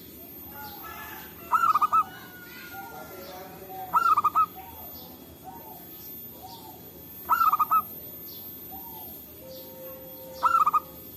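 Zebra dove (perkutut) cooing: four short phrases of rapid coo notes, about three seconds apart, with fainter bird calls in between.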